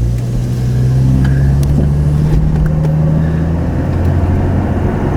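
Car engine running with a steady low hum and some rumbling noise.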